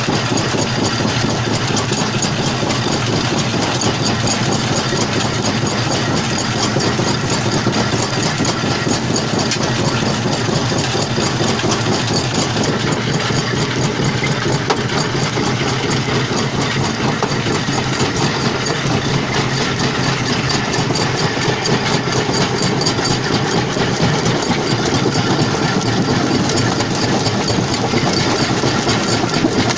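Jaw crusher at a stone-crushing plant running with a steady, dense mechanical din that does not let up.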